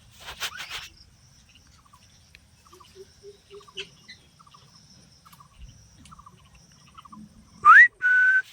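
Pet parrot whistling near the end: one sharp upward-gliding whistle, then a steady held whistle. Before that, only faint scattered chirps and clicks over a faint high, steady insect-like trill.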